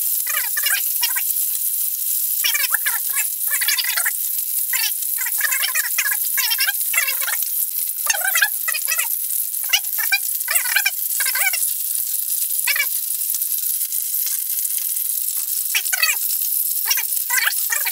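Pork ribs frying in hot oil in a frying pan: a steady high sizzle with irregular crackling and spitting of fat.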